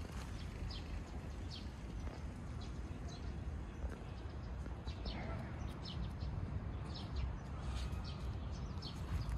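Small birds chirping: short, high, falling chirps repeated irregularly, about two a second, over a low steady rumble.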